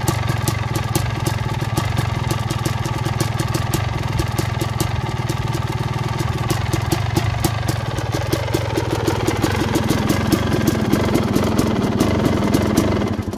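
2006 Suzuki RM250's single-cylinder two-stroke engine, with an FMF Gnarly expansion pipe, running steadily on its first cold start after sitting 20 months. It gets a little louder over the last few seconds, then stops right at the end.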